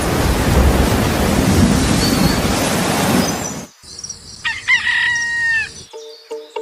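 A loud, even rushing noise cuts off about three and a half seconds in, followed by a rooster crowing once. Music with a repeating note pattern starts near the end.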